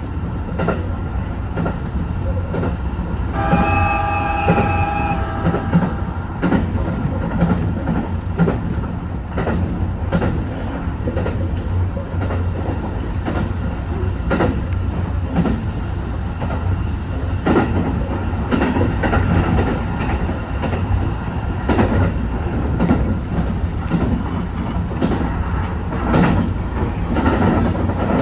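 Running noise of a Senseki-Tōhoku Line train (HB-E210 series hybrid diesel railcar) at speed, heard on board, with wheels clicking over rail joints. About four seconds in, a horn sounds briefly, a steady tone held for under two seconds.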